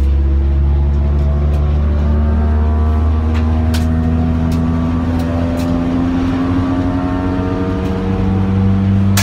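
Mk1 Ford Focus's four-cylinder engine heard from inside the cabin under hard acceleration, its note climbing slowly through one gear over loud road and wind noise. A few sharp ticks come through along the way.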